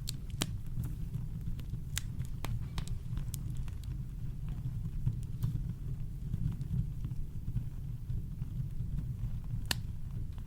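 Campfire crackling with sparse, sharp wood pops, a few close together in the first three seconds and one louder pop near the end, over a steady deep rumble of brown noise.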